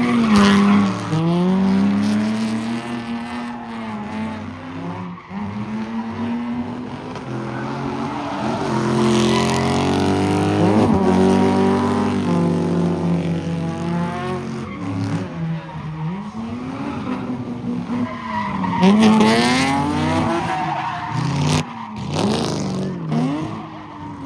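Car spinning donuts in a car pit: its engine revs up and down in repeated swells every few seconds, with tyres screeching as they spin.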